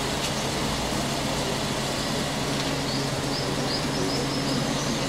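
An SUV's engine idling, a steady low hum, with faint high chirping through the middle.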